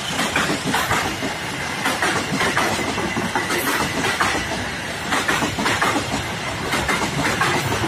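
Passenger train coaches rolling past at close range: a steady rumble with the wheels clacking repeatedly over the rail joints.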